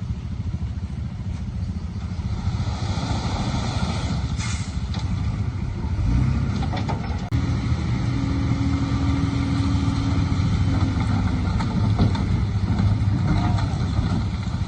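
Heavy diesel engine of earth-moving machinery running under load, a dense low rumble with a few clanks. It gets louder about six seconds in, and a steady whine rides on it for a few seconds after.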